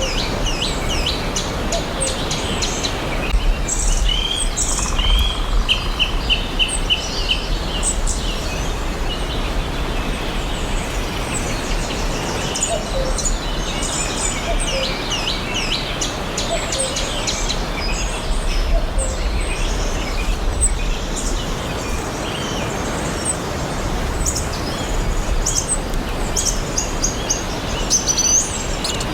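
Several forest songbirds chirping and singing in overlapping short calls, with one bird giving a quick run of about eight repeated notes about five seconds in. A steady hiss of background noise runs underneath.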